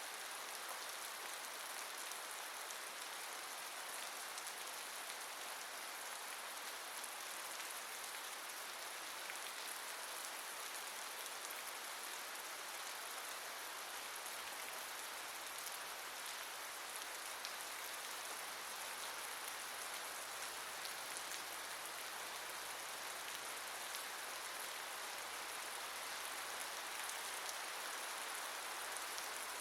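Steady rain: an even hiss of falling water with many fine droplet ticks.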